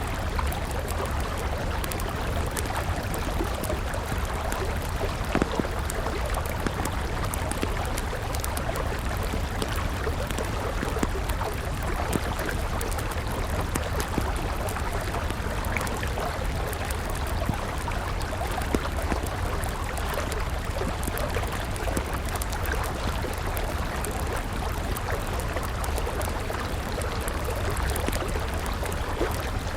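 Steady rush of a flowing river with a burning wood campfire crackling over it, many sharp snaps and pops scattered irregularly through the water sound.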